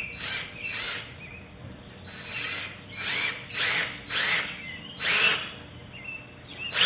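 Cordless drill driving screws into wood in short bursts, about seven of them, each spinning up and winding down with a high whine.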